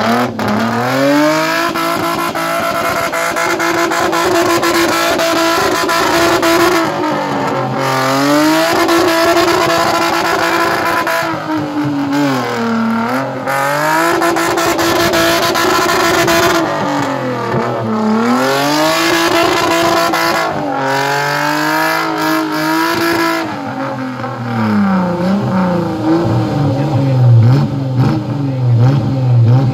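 Suzuki Vitara 4x4's engine revved hard and held high in repeated pushes, the revs falling away and climbing again about every five seconds, as the stuck vehicle strains to climb out of a mud pit. Near the end it drops to a lower, steadier note.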